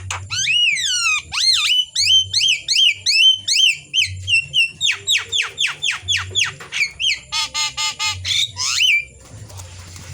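A jalak (starling) singing a loud, varied song: gliding whistles, a quick run of sharply falling notes and a harsh buzzing stretch, stopping about nine seconds in.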